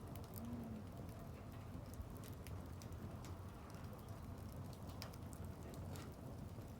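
Wood campfire crackling, with scattered small irregular pops and snaps.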